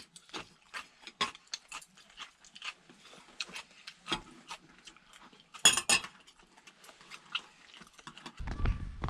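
Utensils clinking and tapping against dishes during a meal, with scattered small clicks and a louder clatter about six seconds in. A low rumbling noise comes in near the end.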